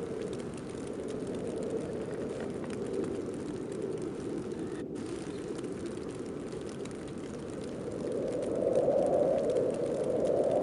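Snowstorm wind blowing as a steady rushing noise that swells into a stronger gust near the end.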